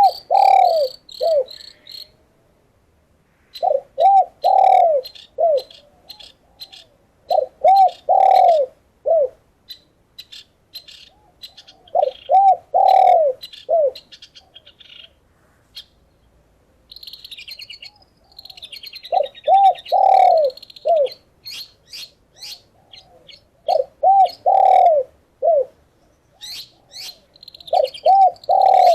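Doves cooing in short phrases of about four notes, a new phrase every three to four seconds, with small birds chirping and twittering high above them.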